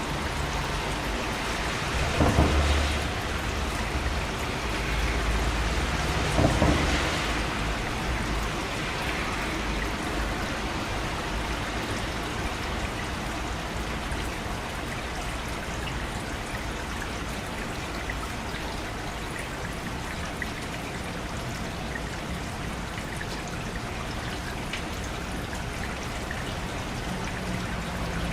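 Steady rain falling, with two short low rumbles of thunder about two seconds and six and a half seconds in.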